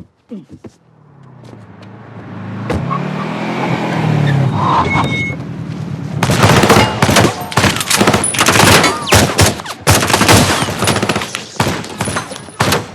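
Film action soundtrack: a car's engine swells with gliding pitch over a few seconds. Then, from about six seconds in, rapid automatic gunfire runs on, many shots in quick succession.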